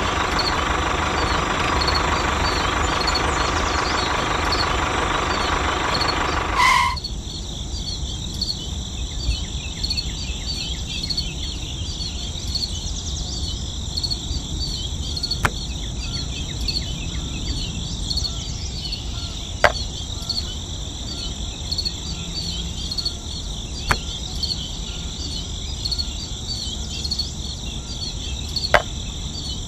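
The small electric motor and gears of a DIY toy tractor whirring, cutting off abruptly about seven seconds in. Crickets chirp steadily throughout, with a few sharp clicks in the second half.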